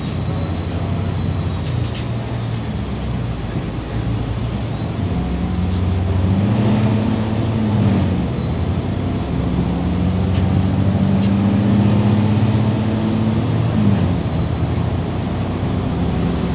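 MAZ 203 city bus's diesel engine and drivetrain heard from inside the cabin while the bus is driving. The engine note rises about six seconds in, holds steady, and drops near the end, with a thin high whine that rises and falls along with it.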